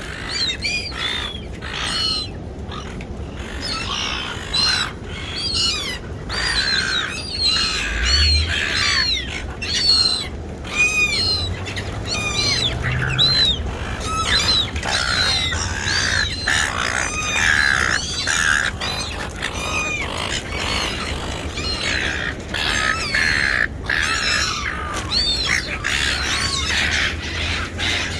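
A flock of seagulls calling over one another: many short rising-and-falling cries, overlapping without pause. A low rumble runs underneath.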